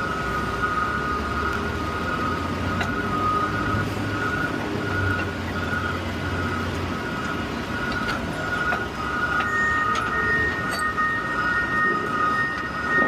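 Peterbilt 520 CNG garbage truck running, heard from inside the cab: a low engine rumble under a steady high whine.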